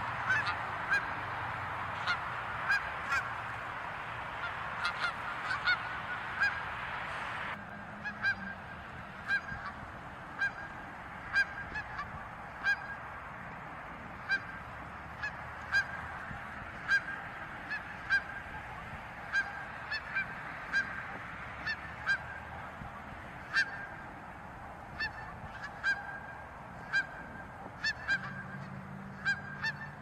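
Canada geese honking: a run of short, sharp honks, roughly one to two a second, throughout.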